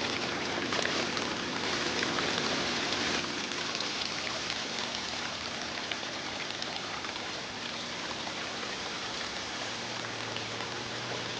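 Steady rain falling, an even hiss of drops, a little louder for the first few seconds.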